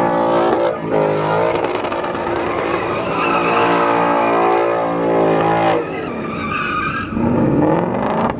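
Car engine revved hard and held at high revs while the tires squeal and skid in a burnout or donut. The revs drop about six seconds in and climb again near the end.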